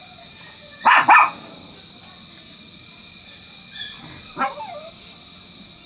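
A dog barking: two quick barks about a second in, then a single bark near the end.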